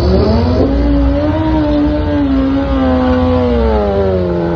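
BMW superbike engine held at high revs during a burnout: it revs up sharply at the start, holds the high note with small wavers, then drops back somewhat after about three seconds.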